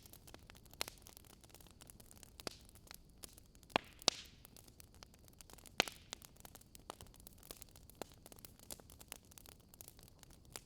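Wood fire crackling: irregular sharp pops and snaps over a faint steady hiss, with a few louder pops in the middle.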